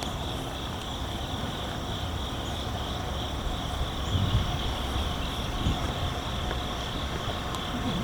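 Low, steady rumble of a train, swelling slightly about halfway through, with insects trilling steadily in a high band.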